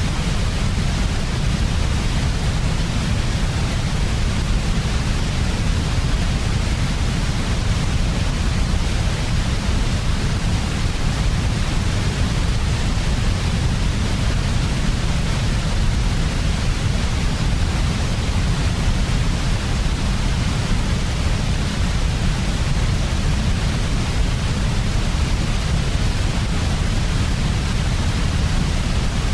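Steady, unchanging white noise played as a sleep sound for babies: an even hiss with a heavy deep rumble underneath.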